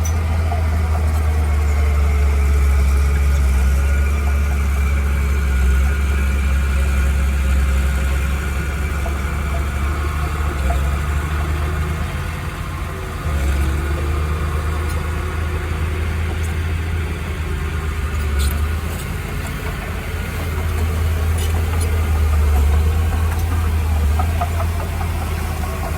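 Heavy engine of earthmoving machinery running with a steady low rumble that eases briefly twice.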